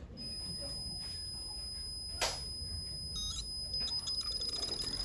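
LG Dual Inverter window air conditioner's variable-speed rotary compressor starting up, a steady, high-pitched, ear-piercing whine setting in about a quarter second in, with a short click about two seconds in. The compressor's sound blanket is removed, which the owners take to explain the piercing sound.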